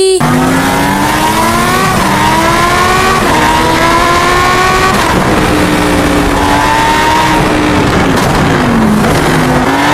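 Race car engine sound revving up through several gear changes: the pitch climbs, drops at each shift and climbs again, then eases off and falls before rising once more near the end.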